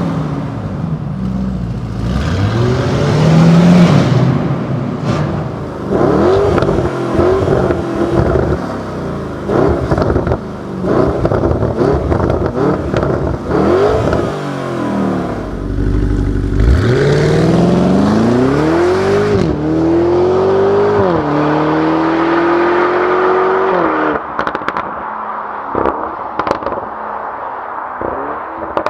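Lamborghini Urus Performante's twin-turbo V8 accelerating through several gears, its pitch climbing and dropping at each upshift, with crackles and pops from the exhaust. Past the middle it pulls up from low revs in one long climb and holds high revs. Near the end it eases off, with crackling on the overrun.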